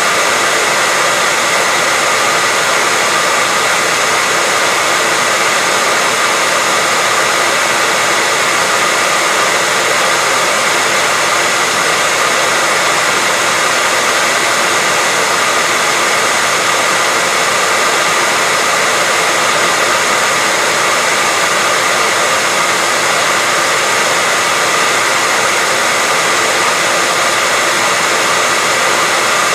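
Hair dryer running continuously, a steady airy rush with a faint motor whine and no change in speed.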